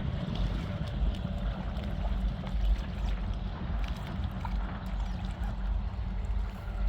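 Strong wind buffeting the microphone in a steady low rumble, over river water gurgling and splashing with small scattered ticks.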